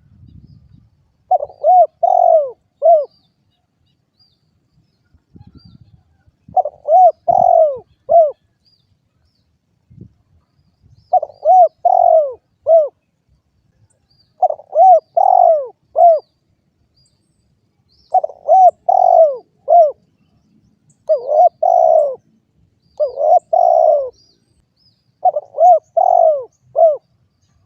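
Spotted dove (derkuku) cooing: short phrases of about four to five rising-and-falling coos, repeated roughly every three to four seconds.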